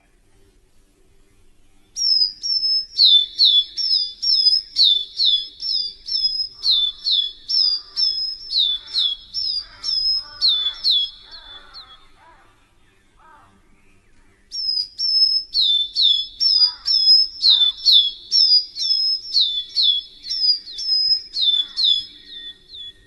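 A songbird chirping repeatedly in two long runs of high, sharply falling notes, about two a second, with a pause of a couple of seconds between the runs. Fainter, lower chirps from other birds sound underneath.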